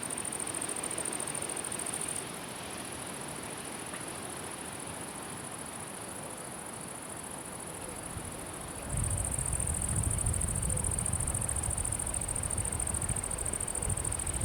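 A cricket's steady high-pitched trill over a faint even hiss. The trill breaks off about two seconds in and comes back about nine seconds in. At the same point a low rumble sets in.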